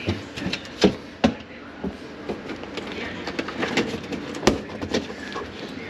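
Irregular knocks and clicks of hard objects being handled, with the sharpest knocks about a second in and again near the end.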